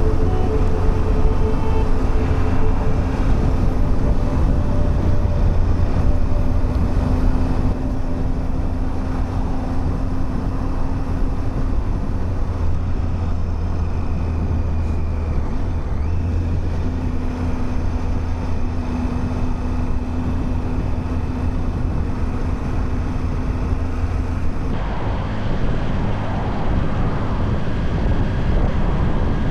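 Motorcycle engine running steadily on the move, with wind and road noise; the sound changes abruptly near the end.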